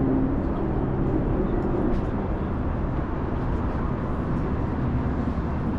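Steady downtown street traffic noise: vehicles running past, with a low engine hum strongest in the first second.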